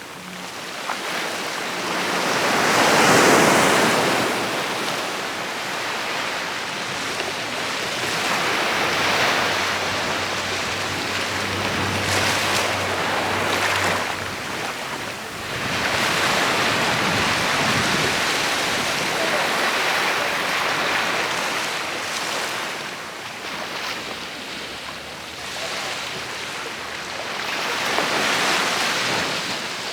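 Sea waves breaking and washing up a beach in slow, repeated swells, each one rising to a rushing peak and falling back. The biggest surge comes about three seconds in.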